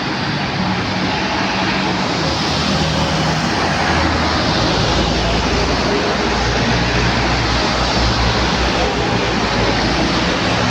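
Jet noise from a Boeing 777-300ER's GE90-115B turbofan engines: a loud, steady rushing noise whose low rumble grows stronger about four seconds in.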